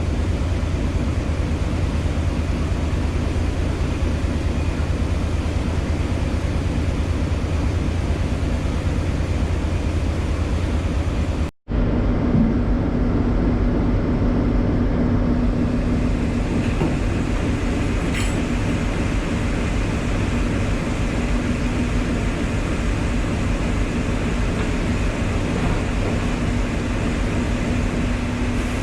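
Star Ferry's engine running with a steady low drone and rushing noise. The sound cuts out abruptly about a third of the way in, then resumes as a steadier engine hum.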